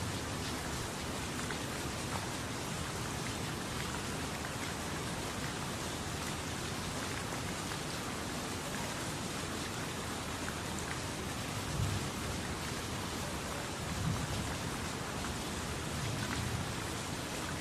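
Steady tropical rain falling, an even hiss dotted with the ticks of single drops, with a few brief low thumps in the second half.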